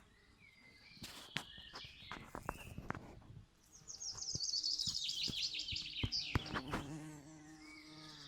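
A songbird's fast trill, falling in pitch over about three seconds, is the loudest sound. Near the end comes the low steady hum of a bee buzzing, and short clicks are scattered through the first half.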